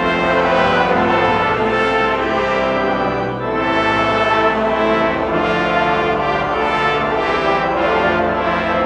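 Brass ensemble playing sustained chords, with a short dip in the music about three and a half seconds in.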